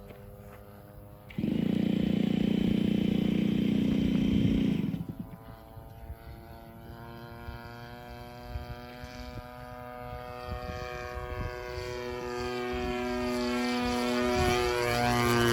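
A model aircraft's DLE 30 single-cylinder two-stroke petrol engine running in flight. A loud, steady engine note sounds for a few seconds starting just over a second in and cuts off abruptly. The engine note then grows steadily louder as the aircraft draws nearer.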